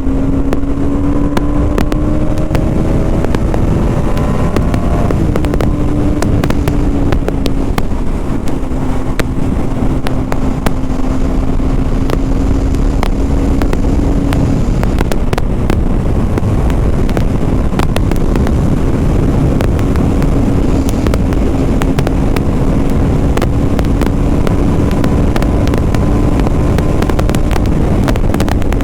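BMW G 310 RR's single-cylinder engine pulling as the motorcycle rides along, heard from the rider's helmet with heavy wind rumble on the microphone. The engine note rises for a few seconds, drops suddenly about five seconds in at an upshift, then holds a steady cruising note that climbs slightly.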